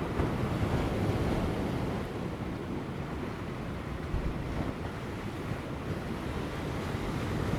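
Large ocean waves crashing on rocks offshore: a steady rushing surge that swells in the first couple of seconds and then eases, with light wind.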